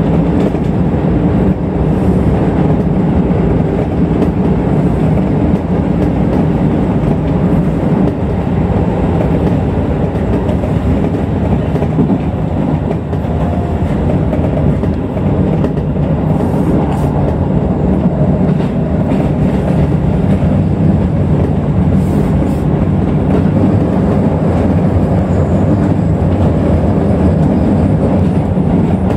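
Keisei electric commuter train running at speed, heard from inside the driver's cab: a steady rumble of steel wheels on the rails.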